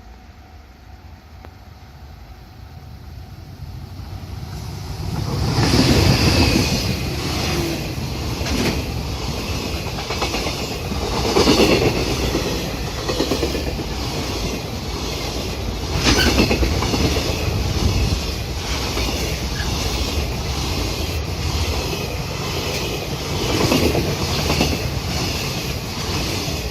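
A freight train approaching and then running past, louder over the first five seconds, with a steady rumble and a regular clickety-clack of its wheels over the rail joints.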